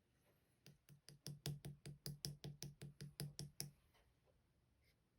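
A quick run of about eighteen even taps, roughly six a second, lasting about three seconds and then stopping.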